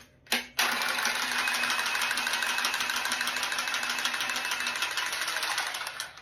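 Milwaukee M12 cordless pipe cutter's motor running steadily for about five and a half seconds, cutting through 28mm copper pipe, with a fast, even ticking throughout. A click comes just before it starts, and it stops just before the end.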